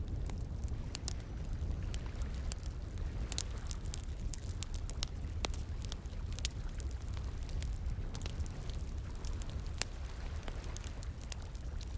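Wood bonfire crackling, with many irregular sharp pops and snaps over a steady low rumble.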